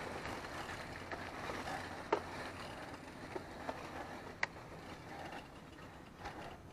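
Mountain bike rolling along a dirt trail: a steady tyre rush that grows gradually fainter, with two sharp clicks about two and four and a half seconds in.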